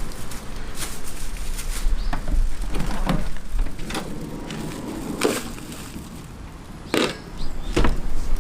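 Irregular knocks and snaps of wood, as with firewood being handled and broken, about half a dozen sharp cracks spread out, the strongest about five and seven seconds in.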